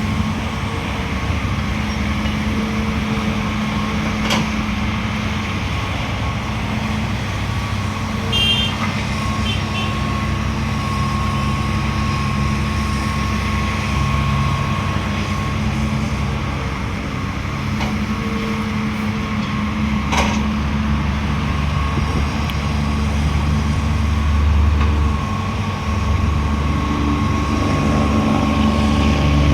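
Heavy diesel engines of earth-moving machinery running steadily at work, with a steady thin whine above the engine note. The load on the engines shifts, growing deeper and heavier over the last few seconds, and a few sharp knocks stand out.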